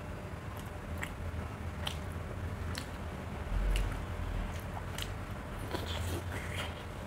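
A person chewing food close to the microphone, with soft wet mouth clicks about every half second to second, and biting into a curried boiled egg near the end. A low thump comes about three and a half seconds in.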